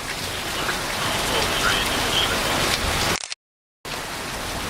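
Heavy thunderstorm rain falling steadily on surfaces, as an even hiss. The sound cuts out completely for about half a second a little past the middle, then returns.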